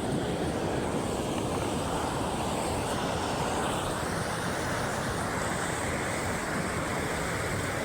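Steady rushing of river water, an even noise without pauses or strikes.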